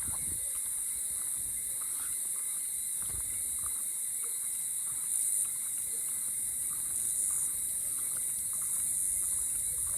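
Night insect chorus: a steady high-pitched trill that never lets up, with faint scattered short calls under it and the occasional soft thump of footsteps.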